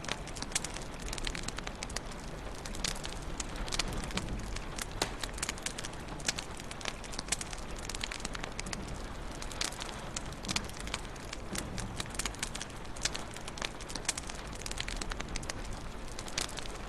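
Wood fire crackling in a fireplace: dense, irregular pops and snaps over a steady hiss and low rumble.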